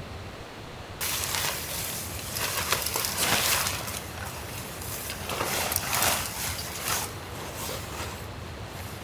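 Rustling and crunching handling noise that starts suddenly about a second in and goes on in uneven surges for about seven seconds.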